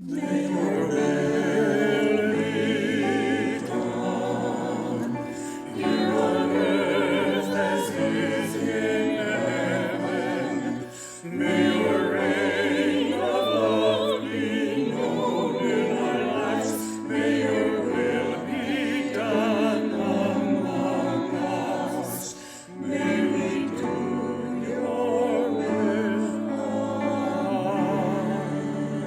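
Sacred vocal music: voices singing with vibrato in long phrases, with brief pauses about 11 and 22 seconds in.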